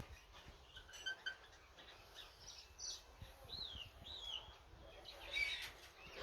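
Birds chirping faintly: scattered short chirps, with two rising-and-falling calls in the middle.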